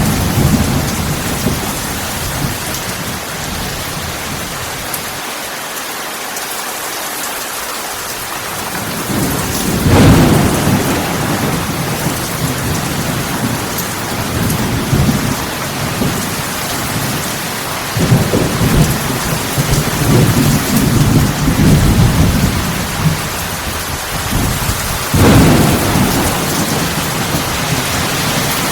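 Heavy thunderstorm: rain pouring steadily, with deep thunder rumbles swelling about ten seconds in, several more through the second half and another near the end.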